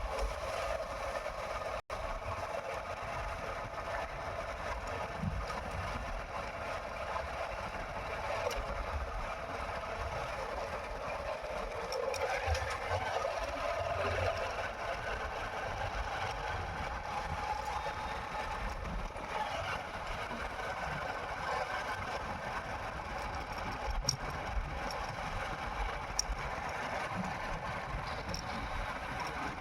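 Motorcycle engine running steadily while riding, with wind rumbling on the microphone. The sound cuts out for an instant about two seconds in.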